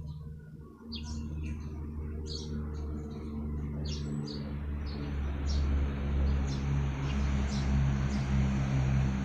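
Small birds chirping in short, high calls scattered throughout, over a steady low engine hum that grows louder about halfway through.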